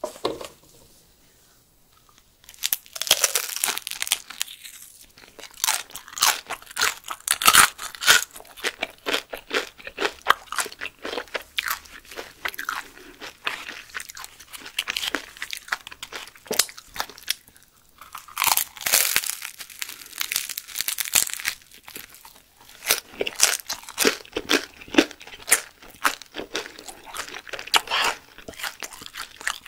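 Close-miked crunching and chewing of fermented herring (surströmming) on crisp flatbread: one bite at the start, then, after a short pause, dense crunchy chewing with a couple of brief lulls.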